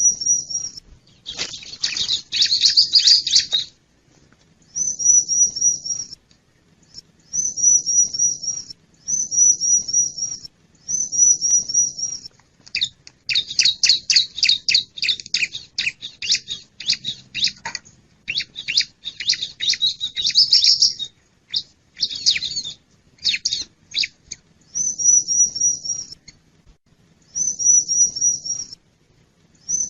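Bar-winged prinia (ciblek) song played as a lure call: short phrases of quick high notes repeat about every second and a half. These are broken by longer stretches of fast, harsh chattering, the longest near the middle.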